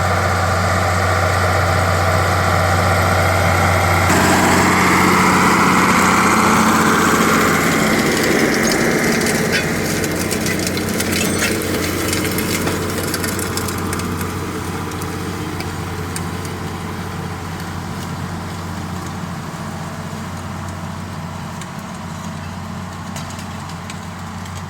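A tractor's engine running steadily. The engine note changes about four seconds in, and the sound then slowly fades, with a few light rattles partway through.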